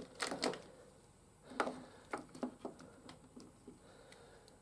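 Small plastic clicks and light knocks from plastic action figures being handled: a cluster of clicks near the start, another about a second and a half in, then a few scattered ticks.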